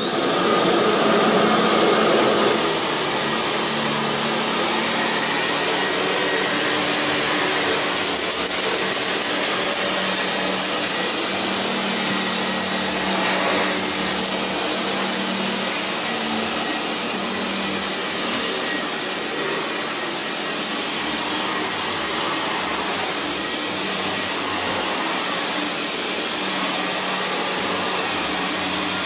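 Vacuum cleaner motor switched on, spinning up with a rising high whine that settles within a couple of seconds, then running steadily and loudly. Scattered crackling clicks come through twice, about a quarter and about half of the way in, as debris is picked up.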